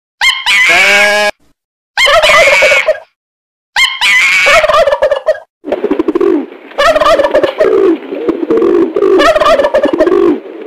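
Loud animal calls, likely farm birds. Three separate calls are each cut off by a sudden silence, then from about six seconds in the calls run on without a break.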